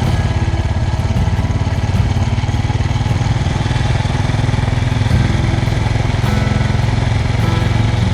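Suzuki DR650's single-cylinder four-stroke engine running steadily while the motorcycle is ridden along a gravel road, its note shifting a little in pitch partway through.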